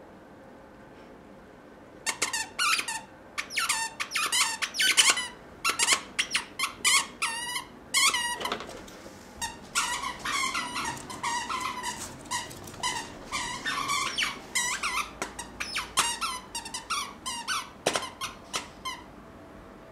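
Plush squeaky star toy squeaked over and over in quick, pitched squeaks, several a second. The squeaking starts about two seconds in and stops just before the end.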